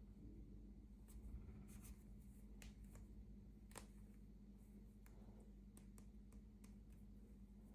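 Near silence: faint scattered clicks and light handling noises from small miniature pieces and packaging being handled, over a low steady hum.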